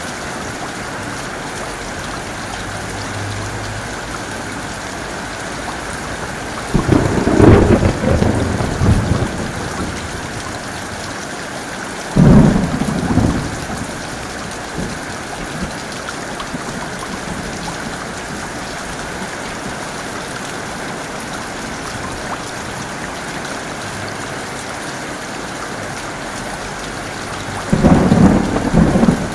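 Heavy rain falling steadily, with thunder breaking through three times: a rolling rumble about a quarter of the way in, a sudden sharp clap a little before halfway, and another rumble near the end.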